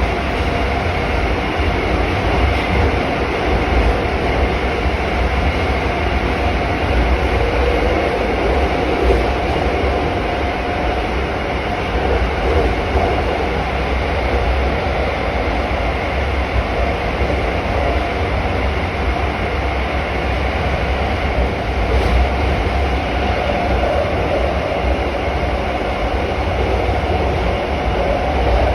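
Moscow Metro train running through a tunnel, heard from inside the carriage: a steady heavy rumble of wheels on rails with the clatter of the wheels over the rail joints.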